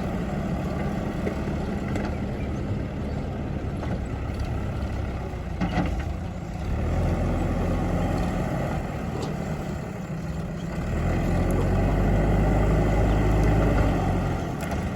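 JCB backhoe loader's diesel engine running, getting louder for a few seconds about halfway through and again near the end, with a single knock about six seconds in.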